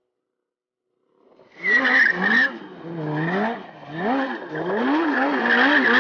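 Stunt motorcycle engine revving up and down over and over, with tyre squeal from the rear wheel, starting about a second and a half in.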